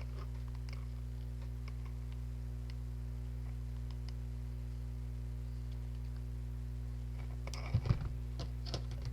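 Scattered small clicks and taps from handling craft materials, over a steady low electrical hum. About eight seconds in comes a louder cluster of clicks with a bump, and one more click just before the end.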